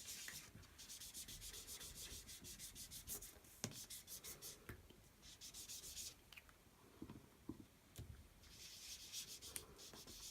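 Faint, fast, repeated scrubbing of a sponge ink dauber being rubbed over cardstock to lay down colour, in two spells of rapid strokes with a few soft knocks between.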